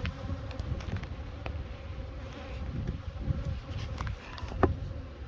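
Honeybees buzzing around the hives as a steady hum, with wind rumbling on the microphone. A few short light knocks come through, the loudest a little before the end.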